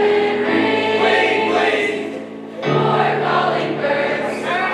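High school choir singing, with a brief dip between phrases about two seconds in.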